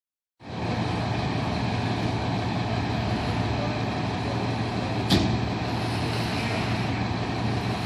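Heavy diesel engine of a fire truck running steadily, with one brief sharp noise about five seconds in.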